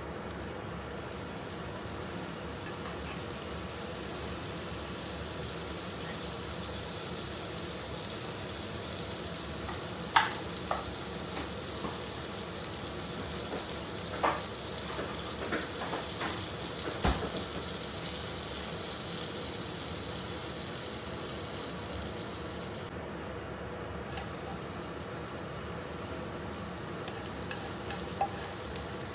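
Butter melting and sizzling in a hot nonstick wok: a steady frying hiss, with a few sharp clicks in the middle and near the end.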